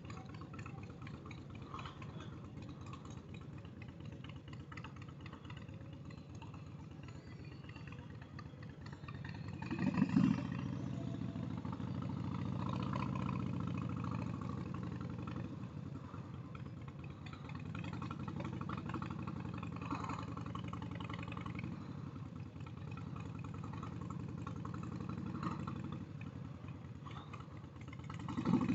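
Motorcycle engine idling and running at low speed, with a brief louder rev about ten seconds in and another near the end.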